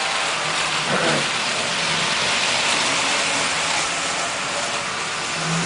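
Old electric toy train running on its track: a steady whir of the motor and wheels on the metal rails.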